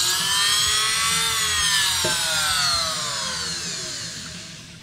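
A handheld rotary power tool finishes cutting through a motorcycle horn's crimped metal sealing ring. Its whine rises slightly for about a second, then falls steadily and fades as the tool winds down, with a single click about two seconds in.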